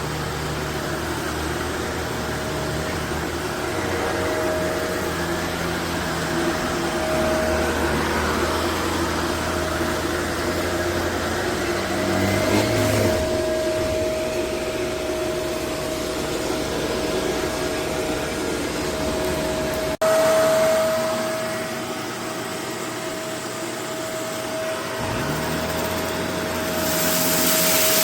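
Upright vacuum cleaner running steadily on carpet, its motor whining at a constant pitch over the rush of airflow. About two-thirds of the way through the sound changes abruptly with a brief jump in loudness, and it gets louder again near the end.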